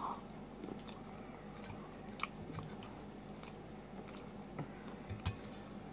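A person chewing a mouthful of deep-fried crinkle-cut fries, quietly, with a few faint clicks scattered through the chewing.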